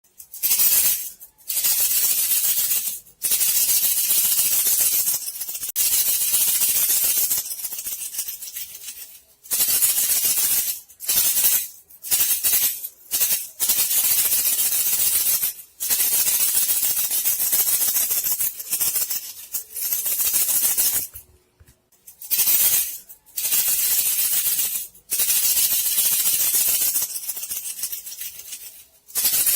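Bandicoot-rat lure sound: a dry, hissing rattle that comes in bursts of one to several seconds, cut by short irregular pauses.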